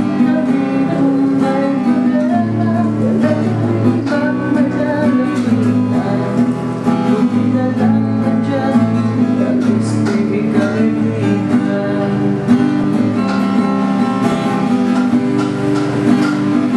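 Acoustic guitar music, strummed and plucked, running steadily.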